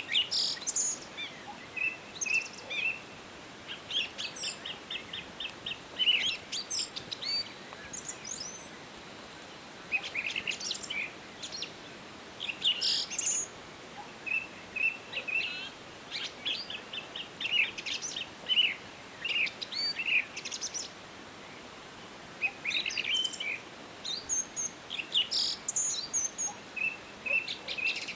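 Several wild songbirds singing and calling in overlapping bouts of short chirps, quick trills and rapid repeated notes, with brief lulls between bouts. A faint steady hiss lies underneath.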